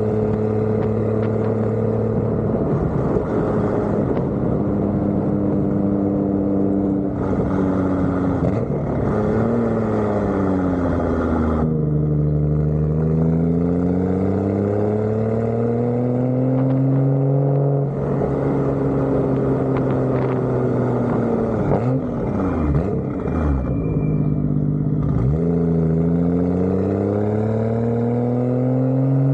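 Car engine pulling through the gears: its pitch climbs steadily, then drops suddenly at each upshift, several times over.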